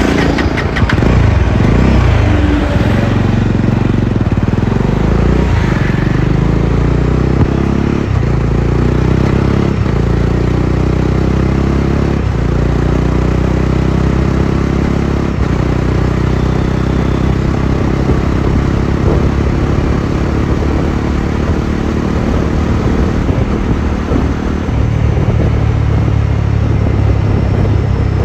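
Bajaj Dominar 400's single-cylinder engine and exhaust running hard under acceleration, with its pitch rising and brief breaks every few seconds in the first half, as at gear changes.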